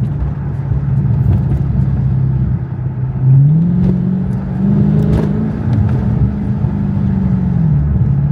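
Dodge HEMI V8 engine and exhaust droning from inside the cabin with the window partly down. About three seconds in it rises in pitch as the car accelerates, holds there for about four seconds, then drops back near the end.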